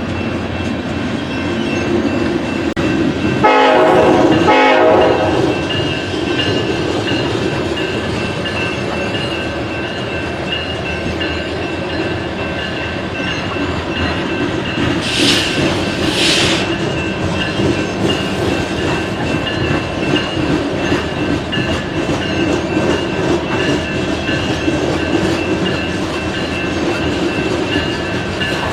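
BNSF coal train rolling by, its wheels clicking over the rail joints with a steady rumble. About three and a half seconds in, the locomotive horn sounds two blasts, a longer one followed by a short one. Around fifteen seconds in there are two brief hissing bursts.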